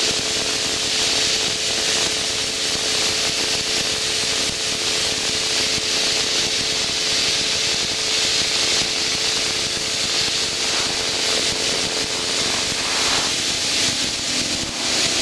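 Steady cockpit noise of an aircraft in flight: an even hiss of engine and airflow with a faint steady hum underneath, heard through the intercom between radio calls.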